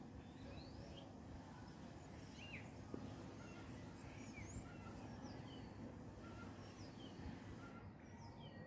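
Faint songbirds chirping: many short, scattered whistled chirps over a steady low background rumble.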